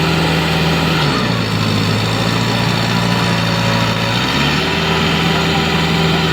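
A tractor's diesel engine running steadily. Its pitch steps down to a lower speed about a second in and comes back up a little after four seconds, the revs changing as the tractor works in the mud.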